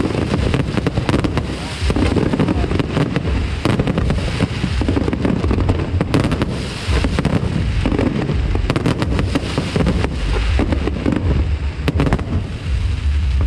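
Fireworks display: many sharp bangs and crackles in quick succession over a steady low rumble.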